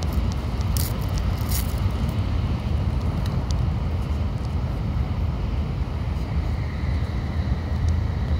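Steady low rumble of a Shinkansen bullet train running, heard from inside the passenger car. A few sharp scrapes of clothing or a hand rubbing on the phone's microphone in the first couple of seconds.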